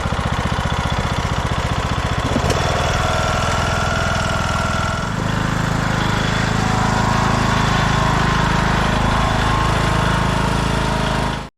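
Craftsman T1600 lawn tractor engine running after weeks of sitting. The owner doubts that the carburettor is clean. About five seconds in, the engine's note changes and turns steadier, and the sound cuts off suddenly near the end.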